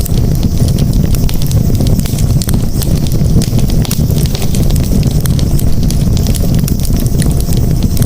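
Campfire burning steadily, with many small sharp crackles and pops over a loud, continuous low rumble.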